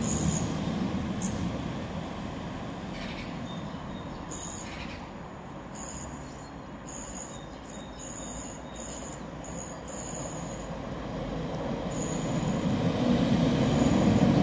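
Northern Ireland Railways Class 4000 diesel multiple unit pulling away under a bridge, its sound fading over the first several seconds. Then another Class 4000 train approaches, growing steadily louder over the last few seconds.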